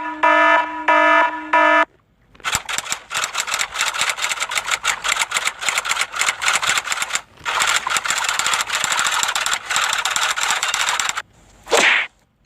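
A short pulsing run of pitched electronic beeps, then a long, rapid string of sharp cracks, several a second with a few brief breaks, and a quick swish near the end.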